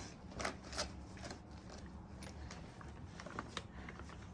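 Faint, scattered clicks and rustles of a Shetland sheepdog fidgeting, bothered by what it has been dressed in.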